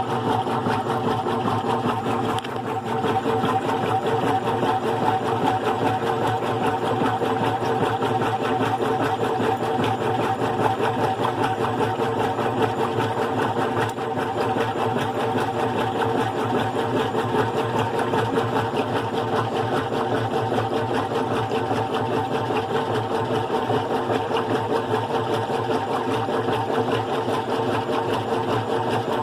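GE Profile top-load washing machine running with its single-speed motor and agitator: a steady mechanical hum with a fast, even pulsing.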